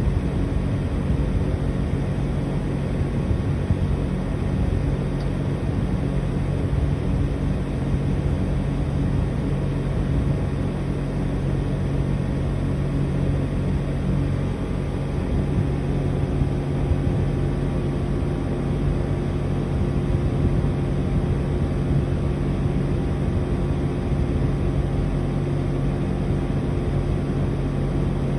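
Outdoor unit of a Mitsubishi Heavy Industries Beaver SRK56TX2 air conditioner running steadily: a low compressor hum with several steady tones over the rush of the fan. About halfway through, its tones shift slightly as the compressor changes speed.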